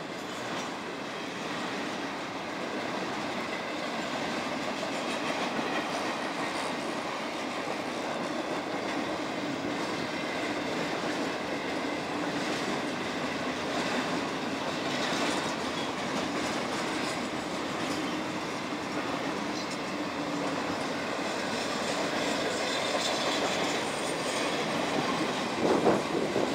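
Florida East Coast Railway double-stack intermodal freight cars rolling steadily past on steel wheels, as the train slows toward a stop. The sound grows louder and more uneven in the last second.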